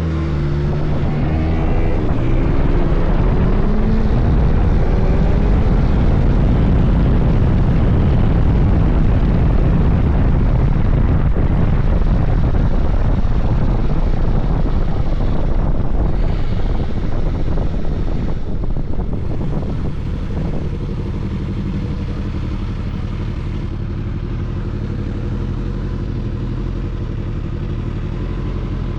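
Suzuki GSX-S1000GT's inline-four engine accelerating, its pitch rising for the first couple of seconds, then running at speed under heavy wind rush. About two-thirds of the way through the wind dies away and the engine settles to a steady, lower note as the bike slows.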